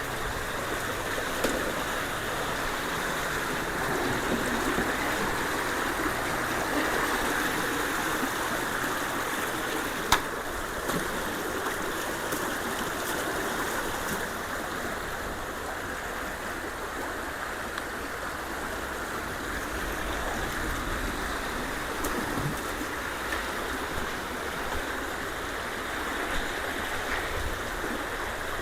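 Steady rush of swift creek water flowing through a ditch, with a faint sharp tick about ten seconds in.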